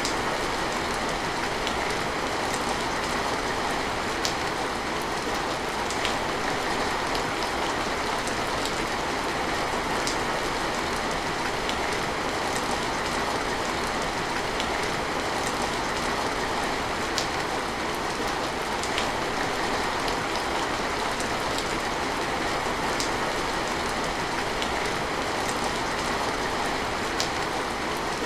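Steady heavy rain falling, an even hiss with scattered sharper drips landing on a surface.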